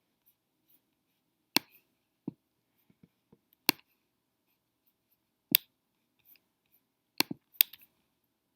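Computer mouse clicking: five sharp clicks spaced about two seconds apart, the last two in quick succession, with a few softer ticks and knocks between them.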